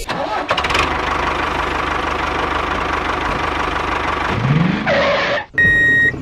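Tractor engine running with a steady, rapid knocking rumble and a rising whine near the end. The rumble then cuts off, and a loud steady beep follows for about half a second.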